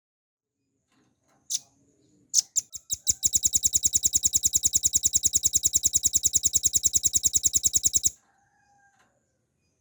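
Velvet-fronted nuthatch singing: a few sharp high notes, then a fast, even trill of rapidly repeated high notes for about five seconds that cuts off suddenly.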